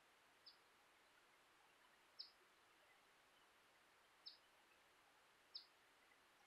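A bird chirping faintly: four short, high chirps spaced one to two seconds apart over near silence.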